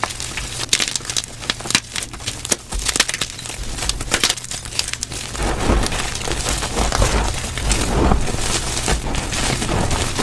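Gym chalk being crushed and crumbled, played at double speed: a dense run of small crunches and crackles that grows fuller and heavier about halfway through.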